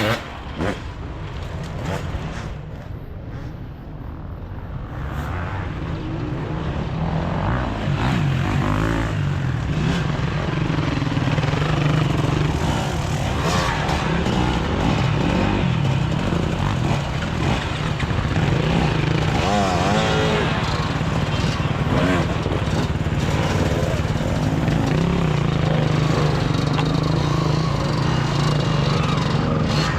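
Enduro motorcycle engine running on a forest trail, growing louder over the first several seconds and then running steadily, its pitch wavering as the throttle changes.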